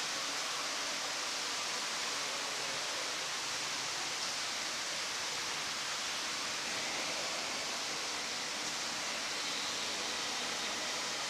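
Steady, even rushing hiss with no breaks.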